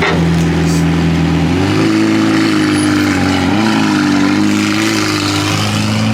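Supercar engines running at low revs in slow traffic. The note steps up about two seconds in, then dips and rises again as the cars creep along.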